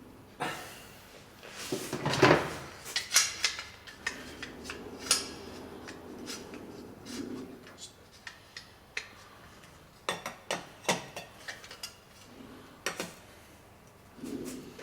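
Metal tools and parts clinking and clattering in irregular sharp knocks and taps while work goes on on a motorcycle engine.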